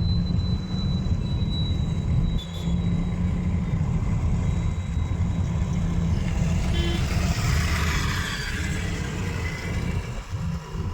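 Car on the road: a steady low rumble of engine and tyres. A louder hiss swells and fades about six to nine seconds in.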